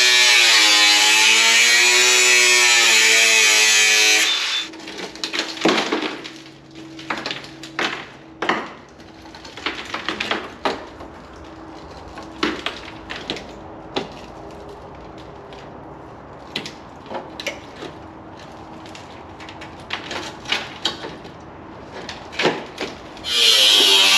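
Power cutter slicing through the rusted steel of a Toyota Hilux sill, its pitch dipping and recovering under load, stopping about four seconds in. Then a run of knocks and clanks as the metal is worked and handled, and the cutter cuts again near the end.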